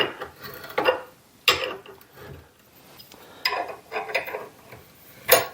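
Box wrench clinking against a rusty steel bolt as it is turned through a 1/2-20 threading die held in a vise, chasing the threads clean. About seven irregular sharp metal clinks and knocks.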